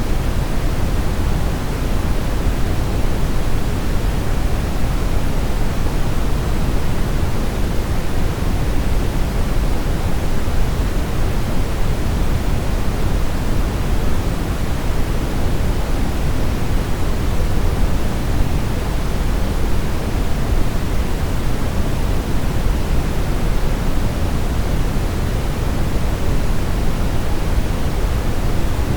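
Steady brown noise: an even, unchanging hiss weighted toward the low end, like a deep rumble.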